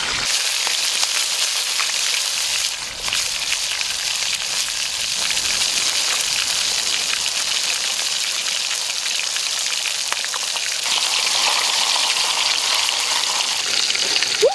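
Chicken pieces frying in a wok: a steady sizzle with fine crackling.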